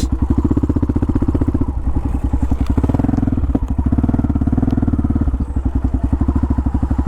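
Yamaha adventure motorcycle's engine running at low revs with an even, rapid putter as the bike is ridden slowly after a turnaround.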